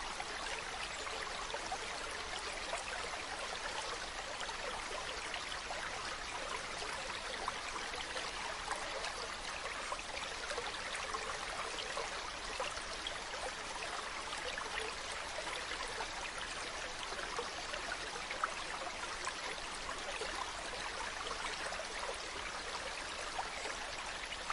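Mountain stream running: a steady rush of flowing water with small splashes and trickles.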